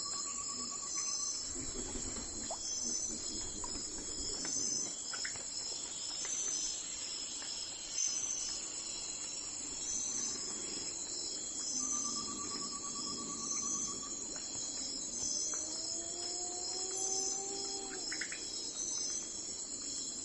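Insects chirping in a steady, pulsing chorus, with a short trill that repeats about every ten seconds. A faint low rumble sits underneath, and a slow rising tone comes in about three quarters of the way through.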